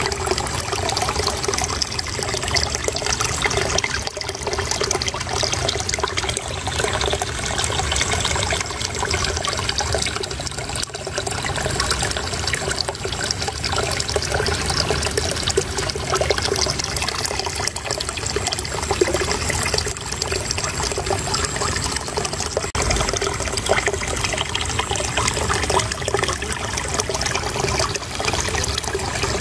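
Flowing water trickling and babbling steadily, an even, unbroken rush.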